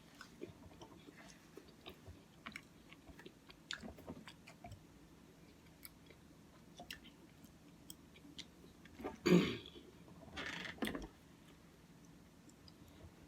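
Close-up chewing and small wet mouth clicks of someone eating Cookie Crisp oatmeal. Two louder noisy sounds come about nine seconds in and again a second later.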